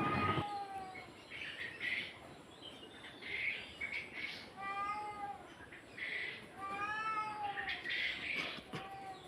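A cat meowing four times, each meow a drawn-out call that rises and falls in pitch.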